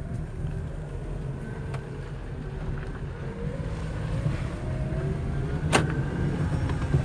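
Chevrolet Prisma 1.4 four-cylinder engine running under acceleration, with a high chirping whine ("piado") that rises in pitch as the revs climb over the second half. One sharp click sounds near the end.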